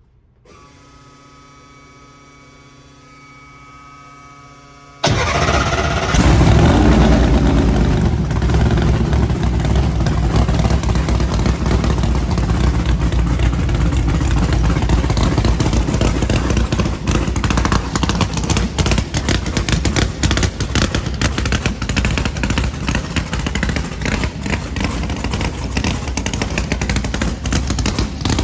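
A quiet, steady whir for the first few seconds. Then, about five seconds in, the 648-cubic-inch big-block V8 of a nitrous drag car fires up loudly, swells briefly and settles into a loud, uneven idle.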